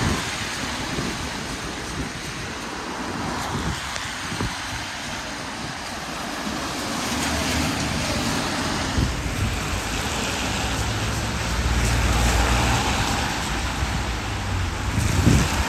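Road traffic passing on a rain-wet street: a steady tyre hiss with engine rumble, which gets heavier as vehicles go by in the second half.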